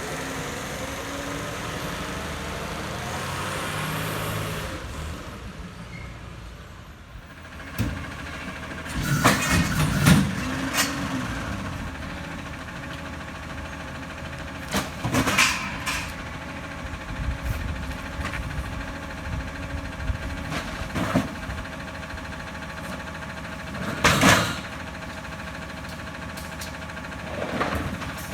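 Rear-loader garbage truck at work: the engine revs up over the first few seconds, then runs on steadily while loud cracks and bangs come every few seconds as bulky waste is crushed and broken in the packer.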